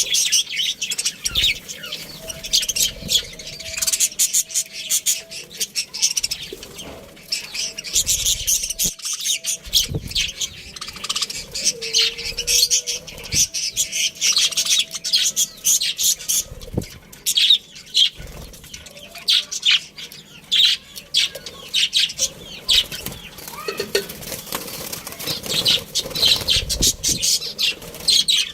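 A colony of budgerigars chattering and chirping nonstop, many high calls overlapping, with frequent short clicks and wing flutters among the birds.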